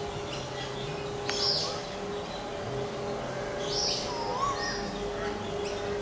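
Birds calling with short, high chirps that sweep downward, one about a second and a half in and a few more around four to five seconds, over a steady low hum.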